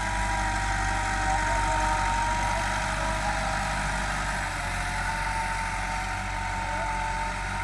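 Massey Ferguson 385 tractor's four-cylinder diesel engine running steadily.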